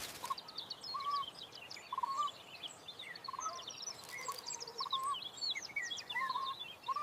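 Several birds chirping and singing, with many quick high chirps and a lower clear arched note repeating every second or so.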